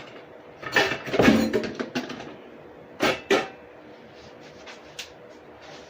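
Kitchen cookware being handled: a roasting pan clattering, with a burst of knocks about a second in and two sharp knocks around three seconds.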